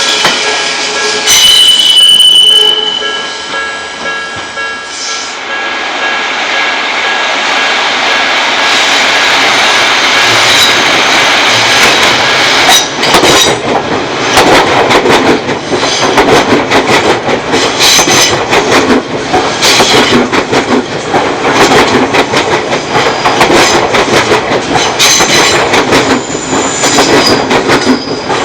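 Odakyu Odawara Line electric train passing over a level crossing. Ringing tones in the first few seconds, fitting the crossing's warning bell, give way to the train's rising running noise. From about thirteen seconds in comes a rapid clatter of wheels over rail joints, with some wheel squeal.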